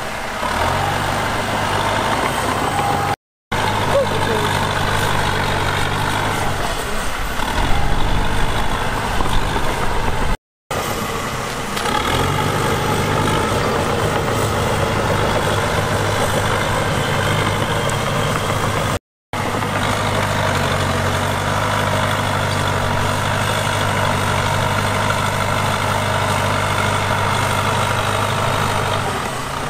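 Heavy diesel engine of earthmoving machinery running steadily with a low hum and mechanical clatter, broken by three brief dropouts to silence, and louder for a couple of seconds about a quarter of the way in.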